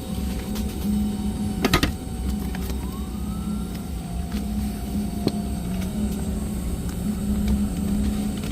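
Steady low hum of a Boeing 717's cabin ventilation at the gate, with a short clatter of clicks about two seconds in and a single click about five seconds in.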